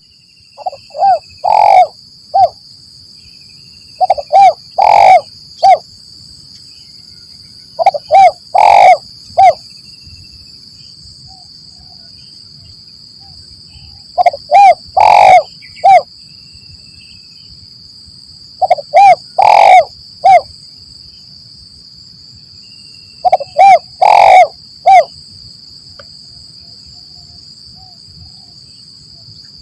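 Spotted dove (tekukur) cooing: short phrases of three or four low coos with one longer, stronger note, repeated about every four to five seconds, over a steady high-pitched buzz.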